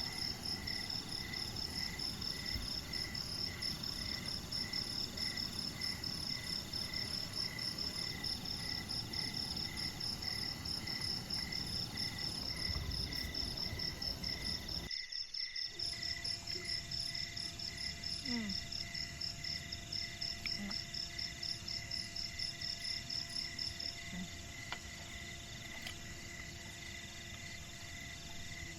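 Insects calling in steady, fast-pulsed trills, several at different pitches at once; the highest-pitched caller stops about three-quarters of the way through.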